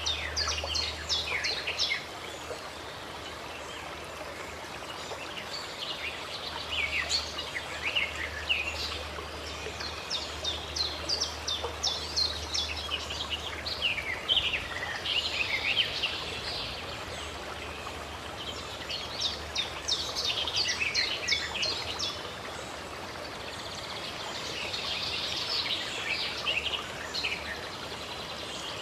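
Songbirds chirping and whistling in quick repeated phrases over the steady rush of flowing stream water.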